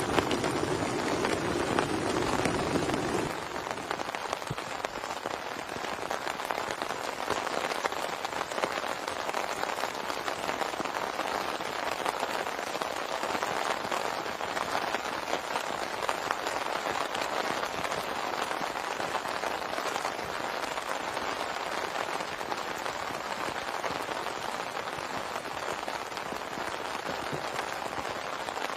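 Heavy rain falling steadily, a dense patter of drops. For the first three seconds a lower rushing sound lies under it and stops abruptly.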